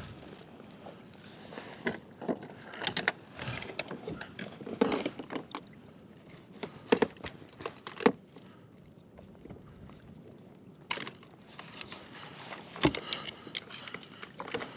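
Irregular clicks, knocks and light rattles of gear being handled aboard a fishing kayak, over a low steady hiss.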